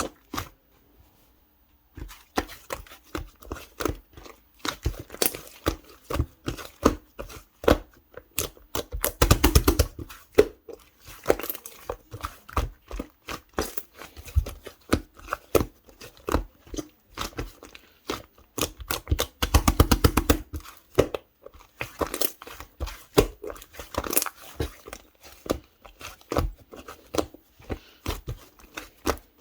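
Clear slime being squished and stretched by hand, making rapid sticky clicks and pops. There are two denser bursts of crackling about nine and nineteen seconds in.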